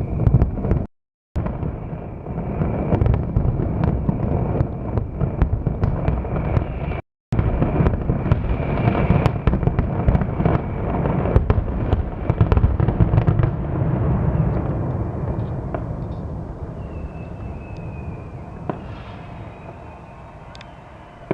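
Fireworks display: a dense run of rapid bangs and crackling, which thins out and dies away over the last several seconds. Twice the sound cuts out completely for a moment.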